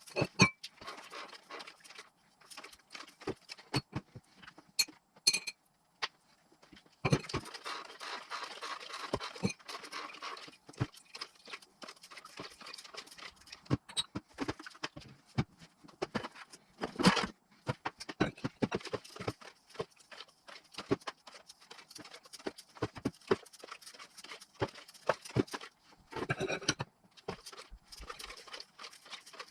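Irregular clicks, taps and knocks of hand tools and metal engine parts being handled during engine assembly, with short stretches of rustling between them.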